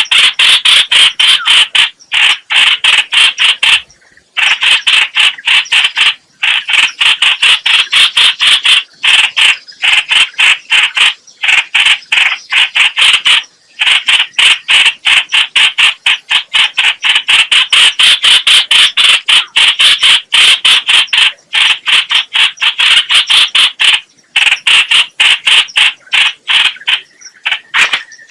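Trao trảo (hoành hoạch) bird calling: a loud, fast chatter of short repeated notes, about five a second, in long runs broken by brief pauses. This is a decoy call played to lure the same species into a trap.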